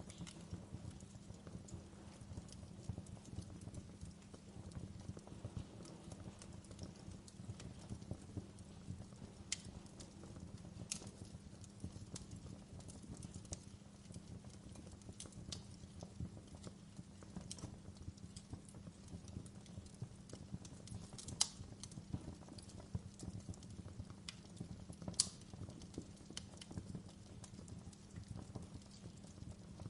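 Wood fire burning in a fireplace: a steady low rush of flames under constant small crackles, with scattered sharper pops, two of them louder in the second half.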